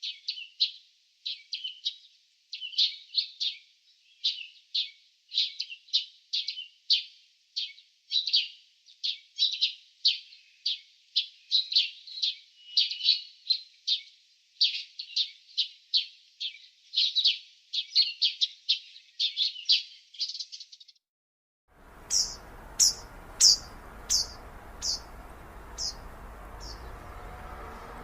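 Small birds chirping in quick, dense bursts of high notes. After a short break, a single bird gives a series of about seven high, down-slurred notes that grow quieter, over steady outdoor background noise.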